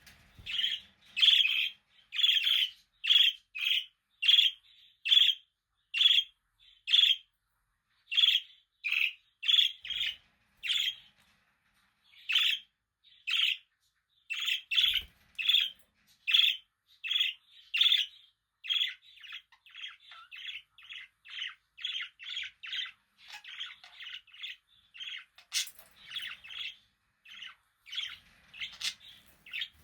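Budgerigar calls: short, sharp chirps repeated about twice a second, giving way about two-thirds of the way in to a faster, softer run of chattering chirps.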